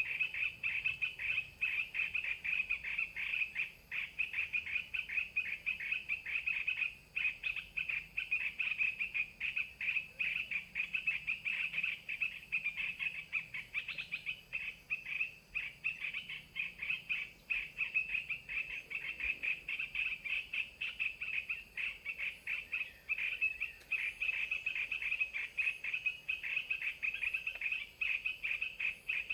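Continuous rapid chirping held at one high pitch: a dense chorus of calling animals.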